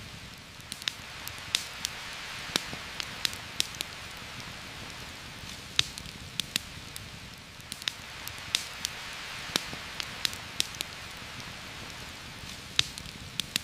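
Heavy rain falling through a forest canopy in a steady hiss, with irregular sharp clicks scattered through it.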